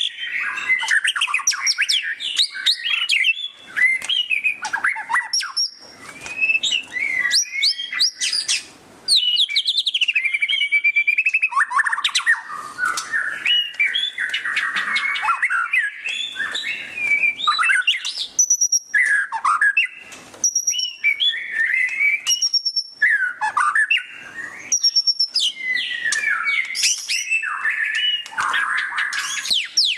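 White-rumped shama (murai batu) singing its loud 'ngeriwik' song: rapid, varied chattering phrases of quick trills and sweeping notes, with a few high clear whistled notes in the middle and short pauses between phrases.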